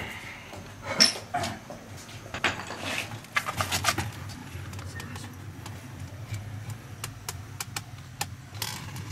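Scattered knocks and clinks as fired pottery is lifted out of a traditional wood-fired kiln: a sharp knock about a second in, a quick run of clinks from about two and a half to four seconds, then a few light clicks near the end.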